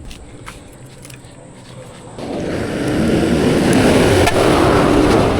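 Heavy vehicle noise: a low hum with a few clicks, then about two seconds in a loud, even rumbling rises and holds.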